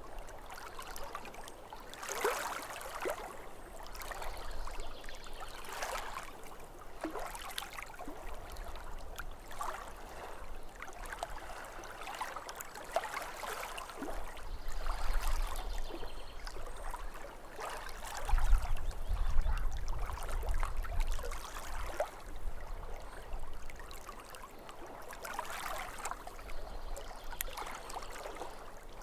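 Small waves lapping and splashing irregularly against a lake shore, with a low rumble for a few seconds past the middle.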